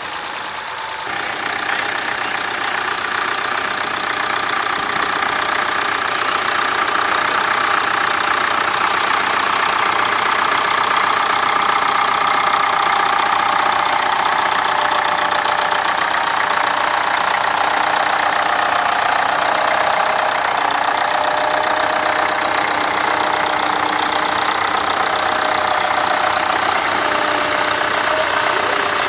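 Tractor engine running steadily while it works a plough across the field; it gets louder about a second in and then holds steady.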